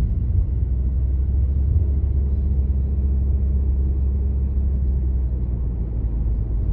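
Lexus NX200 giving a steady low rumble, the abnormal noise the owner is recording.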